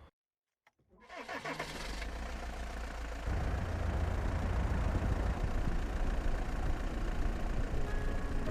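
An engine starting up and then running steadily, stepping up louder about three seconds in.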